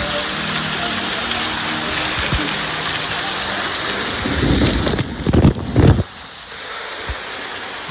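Steady wash of sea surf, with a few heavy low rumbles from about four to six seconds in, after which the wash is quieter.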